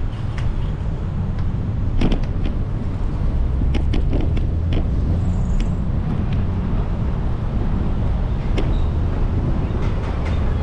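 Steady low rumble of wind and road noise while riding a bicycle, with scattered sharp clicks and rattles, the strongest about two seconds in.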